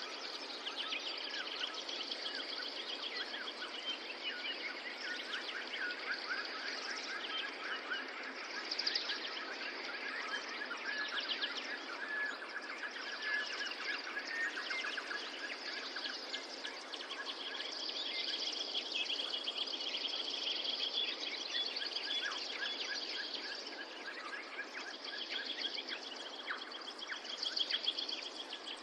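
Several birds chirping and trilling without a break, rapid repeated notes overlapping, over a steady background hiss of outdoor ambience.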